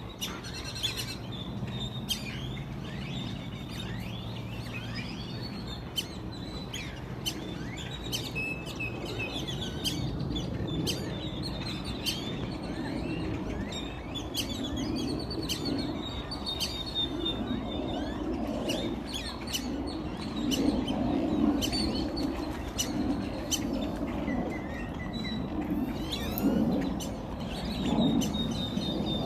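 Many small birds chirping and calling over one another in short, high notes and trills. Under them is a steady low background noise that gets louder in the second half.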